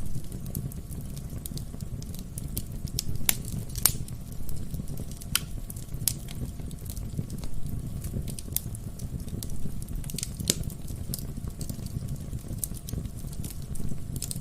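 Wood fire burning in a fireplace: a steady low rumble of flames with irregular crackles and sharp pops from the burning firewood, a few of them louder.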